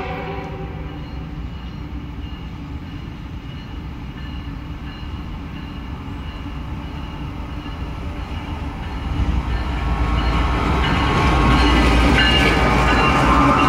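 CSX freight train's lead diesel locomotive approaching: a steady low rumble that grows louder from about nine seconds in as the locomotive's engine and wheels pass close by.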